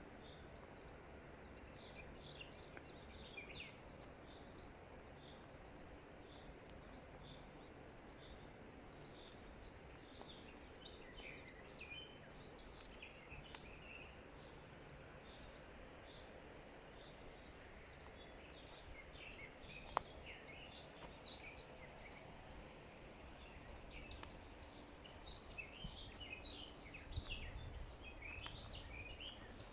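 Faint chorus of forest songbirds: many short, high chirps scattered over a low background hiss, growing busier near the end. A single sharp click about two-thirds of the way through.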